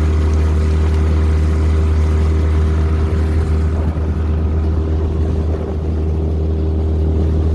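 Tohatsu 9.8 four-stroke two-cylinder outboard motor running steadily at about half throttle, driving a small inflatable boat, a loud, even drone that holds its pitch.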